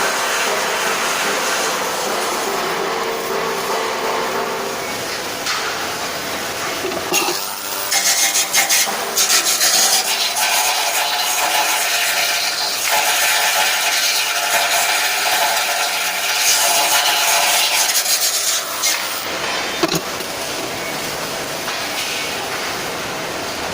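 Rasping, scraping metalwork noise on stainless steel, louder and more uneven from about seven seconds in until about nineteen seconds in.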